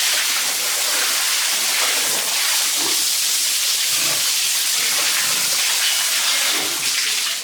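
Water spraying in a steady, loud hiss, most likely a hose or sprayer washing the pigs.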